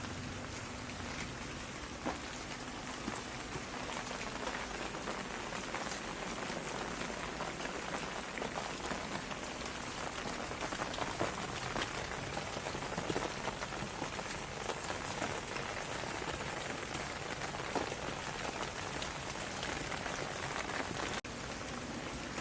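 Steady rain falling on a surface, with many close individual drops ticking through a constant hiss. There is a momentary dip in level near the end.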